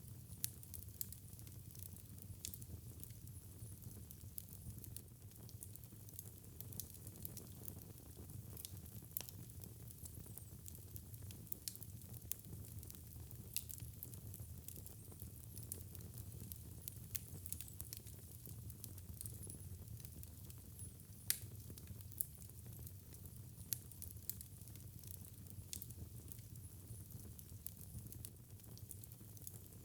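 Wood fire burning in a fireplace: a steady low rumble of flames with frequent small, irregular crackles and pops, one sharper pop about two-thirds of the way through.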